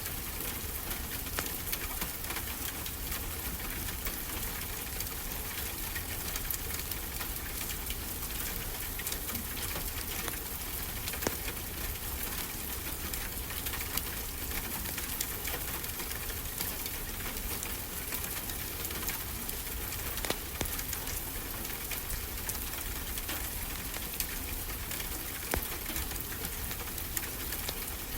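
Wood fire crackling in a fireplace, with frequent sharp pops and snaps over a steady, even hiss.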